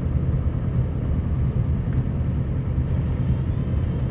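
Scania R560 truck's V8 diesel engine running as a steady low rumble while it plows snow.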